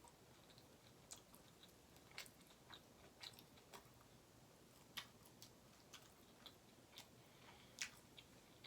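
Faint close-up chewing: a person eating, with scattered soft, sharp mouth clicks, two of them louder, about five seconds in and just before the end.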